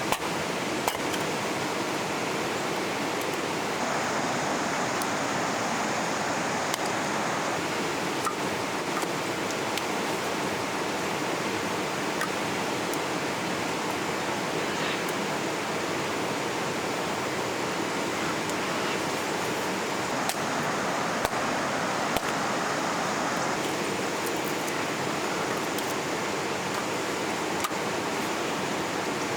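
Steady rushing of flowing river water, with a few faint sharp clicks.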